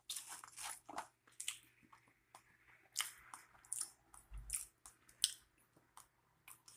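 A person chewing food close to the microphone, with irregular soft clicks of the mouth and teeth and a low thump about halfway through.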